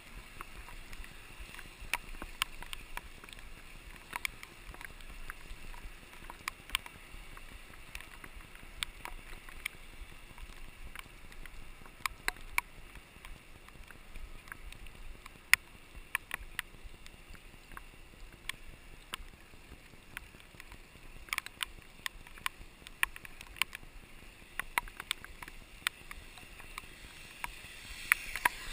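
Riding a mountain bike in heavy rain on a wet road: a steady wet hiss with frequent, irregular sharp ticks of raindrops striking the handlebar-mounted camera.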